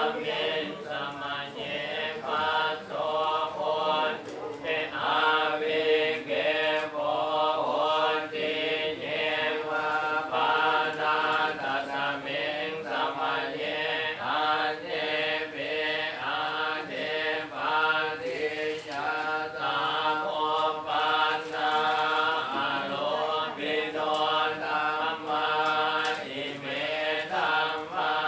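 A group chanting Buddhist Pali verses in unison: a steady, rhythmic recitation that holds close to one pitch.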